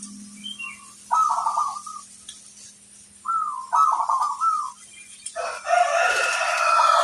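Zebra doves (perkutut) cooing in short repeated phrases, first about a second in and again from about three seconds. From about five and a half seconds a louder, denser chorus of several birds calls at once, overlapping.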